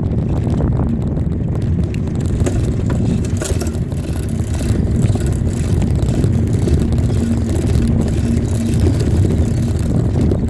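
Wind rushing over the microphone of a camera on a moving bicycle, a steady low rumble with no pauses.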